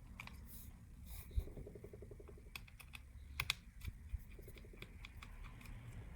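Small sharp clicks and taps of a Phillips screwdriver and tiny screws as the screws are taken out of a Samsung Galaxy S9 Plus's frame, with a short run of fine rapid ticks about a second and a half in.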